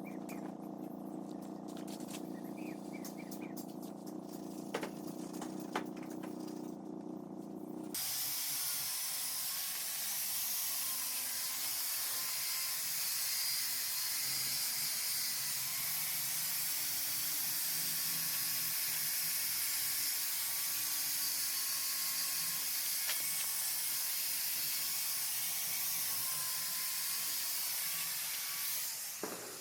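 A motor hums steadily with a few clicks, then cuts off abruptly about eight seconds in, and a loud, steady hiss of compressed air spraying takes over until it fades near the end.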